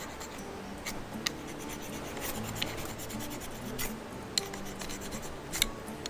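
Light scratching and rubbing of dry twigs and kindling, with a few scattered sharp crackles, as a small campfire of feather sticks and hemp twine struggles to catch.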